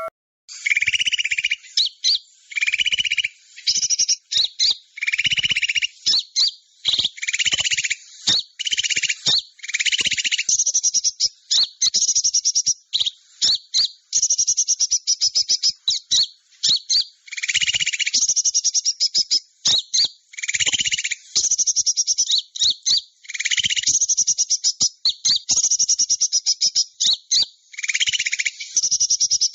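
Recorded small-bird lure calls: high, buzzy trilled calls repeated in short phrases with brief gaps, some phrases carrying a lower buzzing part beneath the high trill.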